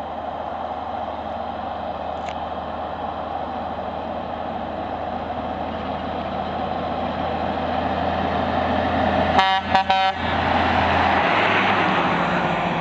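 Scammell Explorer recovery truck with its Meadows straight-six petrol engine running under way, growing steadily louder as it approaches and passes. A horn gives about three short toots a little over nine seconds in, and the engine note drops soon after as the truck goes by.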